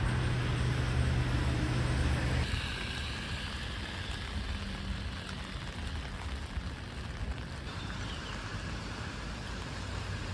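Subway station ambience: a steady low hum, typical of escalator machinery, drops away about two and a half seconds in, leaving an even rushing noise.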